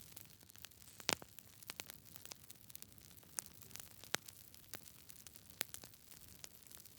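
Wood burning in a fireplace, crackling: irregular sharp pops and snaps over a faint steady hiss, the loudest pop about a second in.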